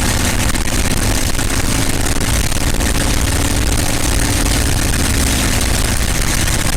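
North American P-51 Mustang's Merlin V-12 engine running steadily at run-up power, a deep even drone with no break.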